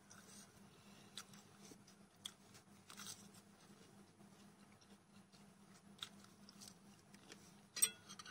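A person chewing a mouthful of sausage close to a clip-on microphone: faint wet mouth sounds with a few soft clicks. A sharper click near the end as metal chopsticks touch the plate.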